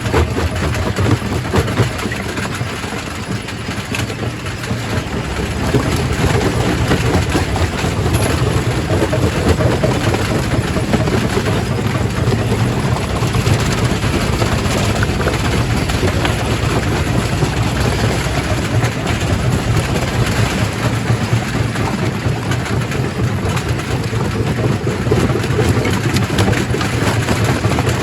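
Primary rock crusher at a quarry running and crushing stone: a steady, loud machine hum with constant dense clatter and grinding of rock, easing a little a few seconds in.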